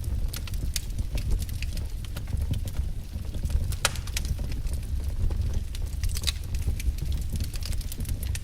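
Wood fire crackling: irregular sharp pops and snaps over a steady low rumble of the burning logs, with the loudest snaps just before four seconds in and a little after six.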